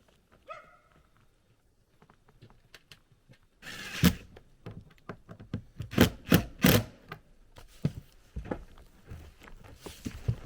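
A series of loud knocks and thuds, one about four seconds in and three in quick succession around six to seven seconds, with softer knocks after. Near the start a dog gives a short whine.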